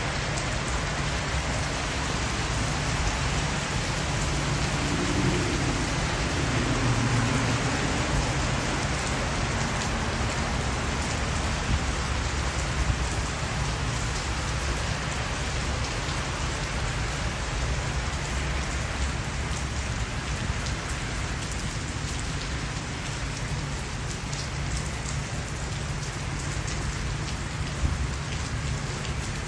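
Steady rain falling and hitting surfaces, with a few sharper, louder drops now and then.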